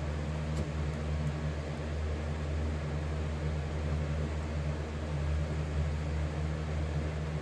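Steady low electrical hum with fan noise from an electric copper-melting furnace running, holding even throughout.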